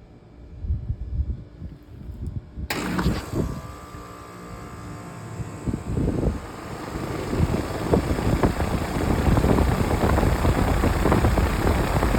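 Maytag outdoor air-conditioner condenser unit kicking on with a sudden start about three seconds in, after a few low thumps, then running steadily and growing louder.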